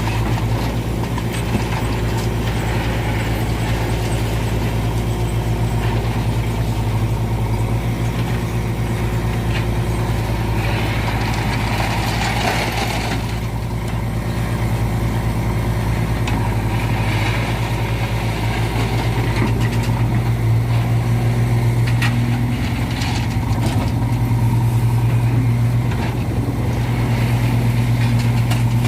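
Heavy diesel engine running steadily with a low hum, while a tipper trailer is loaded by backhoe. About halfway through, a hissing noise swells briefly over the engine.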